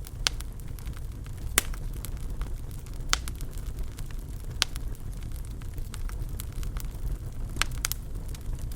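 Fireplace fire crackling: a handful of sharp pops over a steady low rumble, two of the pops close together near the end.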